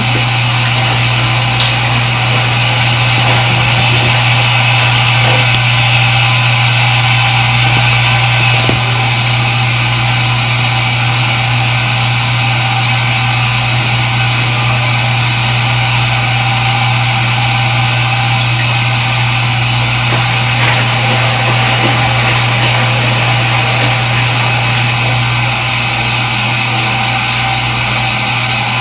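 Front-load washing machine running, a steady motor hum and whir that holds without change, with one small click about two seconds in.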